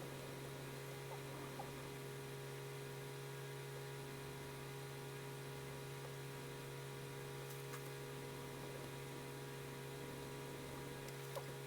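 Steady electrical mains hum, with a few faint ticks.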